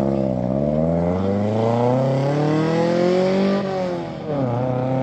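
Car engine accelerating hard, its pitch climbing steadily for about three seconds, then dropping sharply at a gear change and climbing again near the end.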